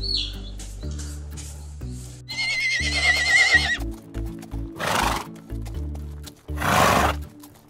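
Plains zebra calling: a wavering, whinny-like call a little over two seconds in, then two harsh, breathy blasts near the end. Background music with slow low notes runs underneath, and a chick peeps once at the very start.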